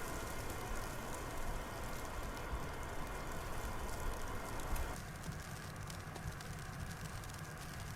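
Blizzard wind blowing steadily, with a fine patter of driven snow. About five seconds in, the sound changes abruptly to a lower rumble with less hiss in the middle.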